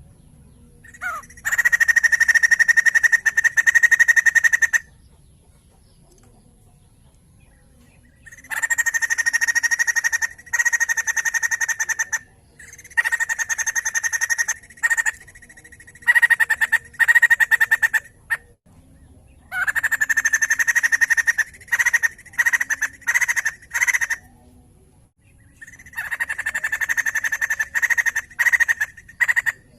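White-crested laughingthrush chattering in loud, rapid bursts of a few seconds each, about six bursts with short pauses between them.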